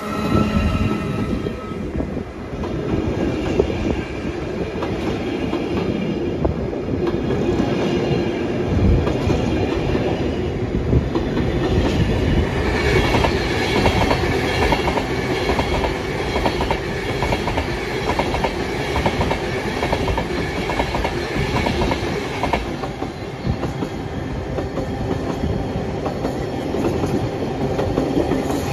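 Freight train rolling past, its wheels clattering steadily over the rail joints, with a high-pitched whine or ringing in the middle stretch.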